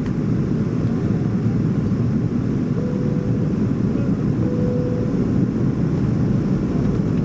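Steady low rumble of a Boeing 737-400's cabin: the noise of its CFM56 engines and the airflow around the fuselage, heard from inside. A faint thin tone comes in briefly twice near the middle.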